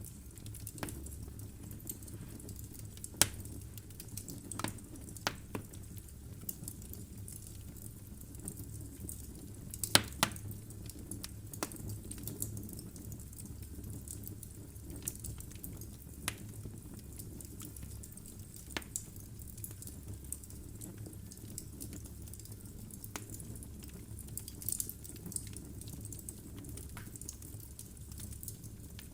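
Wood logs burning in a fireplace: a steady low rumble of flame with irregular sharp crackles and pops. The loudest pops come about three seconds in and as a quick double pop about ten seconds in.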